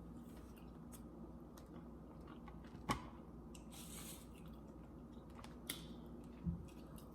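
Faint close-up chewing and mouth sounds of a person eating, with scattered soft clicks, the sharpest about three seconds in, over a low steady hum.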